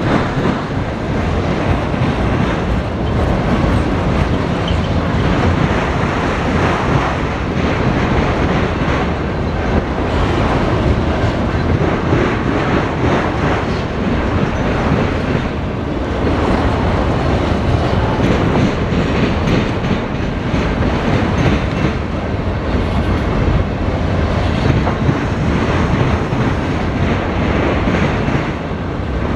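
A freight train of autorack cars rolling steadily past, its wheels running over the rails.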